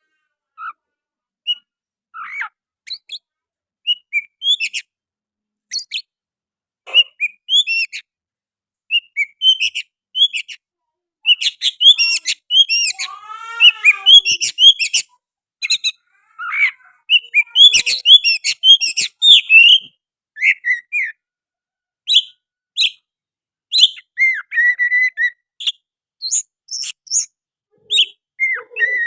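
Oriental magpie-robin singing a fast, varied song of whistles and chirps, with sooty-headed bulbul imitations worked in. The song starts with scattered notes and turns into a dense, nearly unbroken run from about ten seconds in.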